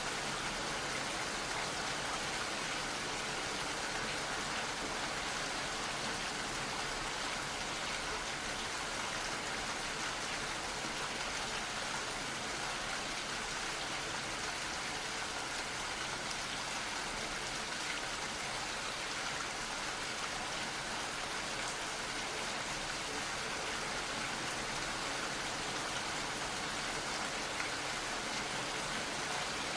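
Gentle rain falling, a steady even patter that does not change.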